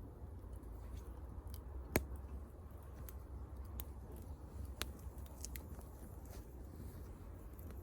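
Wood fire crackling, with scattered sharp pops and snaps, the loudest about two seconds in, over a low steady rumble.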